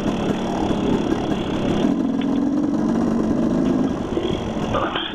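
Dirt bike engine running at low speed with a steady note that drifts a little in pitch, over a constant rushing noise.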